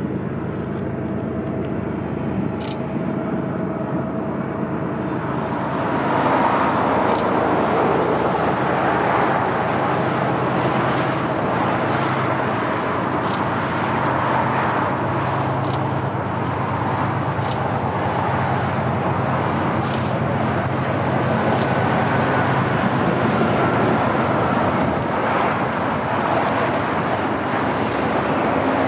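Train rolling past with a steady low engine hum and the rumble of its wheels on the rails, growing louder about six seconds in, with scattered sharp clicks.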